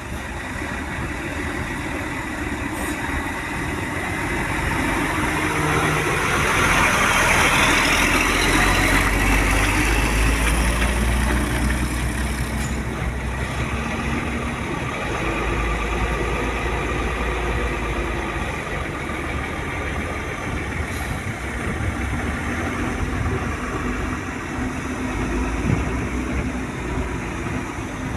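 Truck engine running at idle with a steady low hum. It grows louder for several seconds a few seconds in, then settles back.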